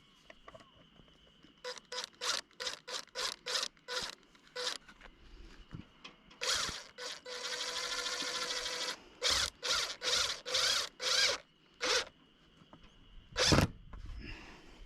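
Rhythmic rasping strokes of a hand tool worked back and forth, about three a second, with a longer rasp of about two seconds in the middle and a single loud thump near the end.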